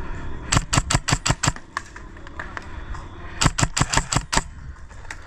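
Airsoft gun firing two quick strings of about eight sharp shots each, the first about half a second in and the second about three seconds later.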